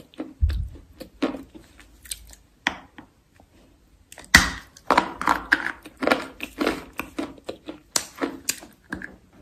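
Close-up crunching: sharp cracks and crunches of something crisp being bitten or crushed, a few at first, then a fast, dense run from about four seconds in.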